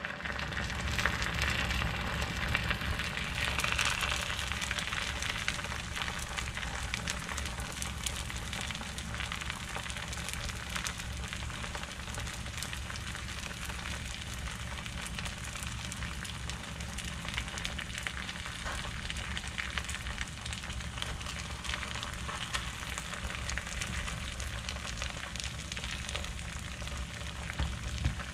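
Battered perilla leaf frying in oil in a frying pan: a steady crackling sizzle, over a low steady hum.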